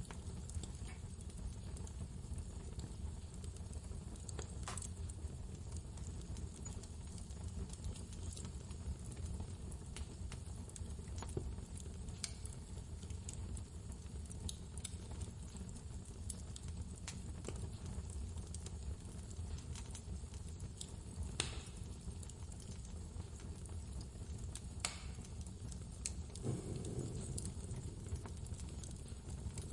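Wood fire crackling, with scattered sharp pops, one louder than the rest about two-thirds of the way through, over a steady low rumble of blizzard wind.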